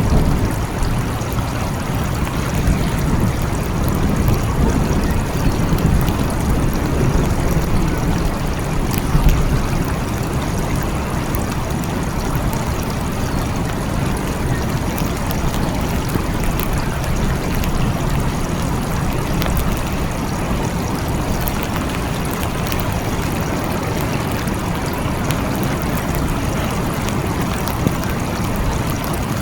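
Steady rain with fine drop patter, over a continuous low rumble of distant thunder that swells a little in the first third.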